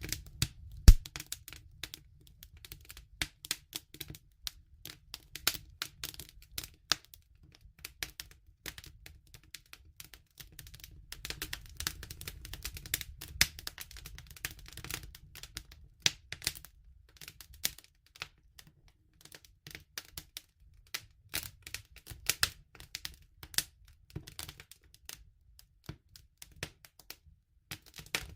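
Wood fire crackling: irregular sharp snaps and pops over a low rumble, with the loudest pop about a second in.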